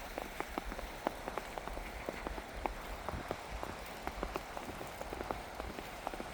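Rain falling: many irregular drop ticks over a steady hiss.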